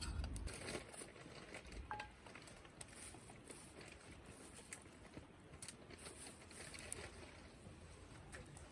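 Wood campfire crackling faintly, with scattered small pops and ticks over a soft background hiss.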